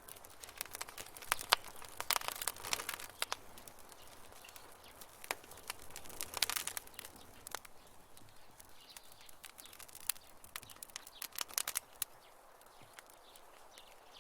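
Campfire crackling: sharp, irregular pops and snaps, some in quick clusters, over a faint steady hiss.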